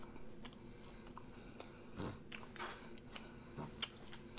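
Close-up mouth sounds of a man chewing a mouthful of burger: faint wet smacks and small clicks, with a sharper click near the end.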